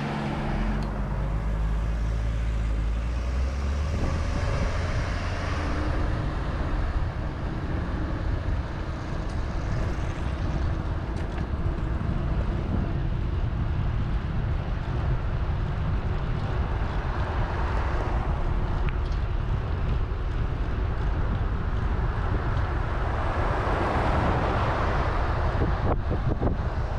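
Wind rumbling on the microphone of a camera carried on a moving bicycle, with outdoor road noise. A broader rush of noise swells up near the end.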